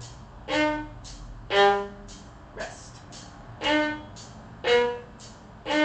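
Violin playing short, separate bowed notes of a G-sharp minor arpeggio (D sharp, G sharp, B), five notes about a second apart with rests between them. A voice says "rest" once, about three seconds in.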